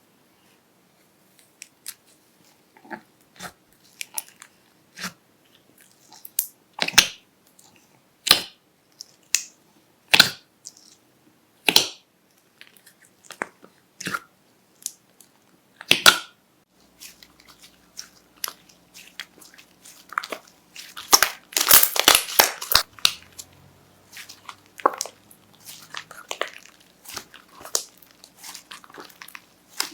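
Slime being pressed and worked by hand, giving sharp crackles and pops spaced a second or two apart, then a dense run of crackling about two-thirds of the way through.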